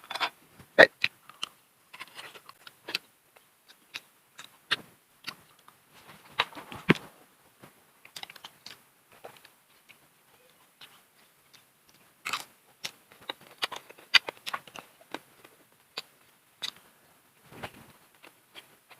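Close-up eating sounds: irregular bites, crunching and chewing with small wet mouth clicks. There is a quieter stretch near the middle and a denser run of crunches after it.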